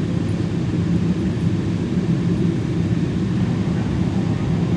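Steady low rumble of a Boeing 777's engines and airflow heard inside the passenger cabin.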